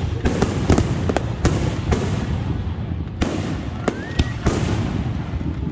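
Fireworks going off: an irregular run of sharp bangs and cracks, several a second, over a constant low rumble, with a short rising whistle about four seconds in.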